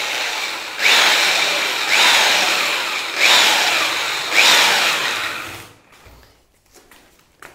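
Electric drill mixer with a paddle churning a batch of travertine plaster powder and water, surging four times about a second apart, each surge starting loud and easing off. It stops about six seconds in.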